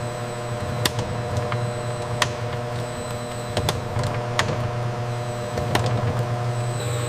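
Processing machinery running with a steady low hum, cut by irregular sharp clicks and ticks.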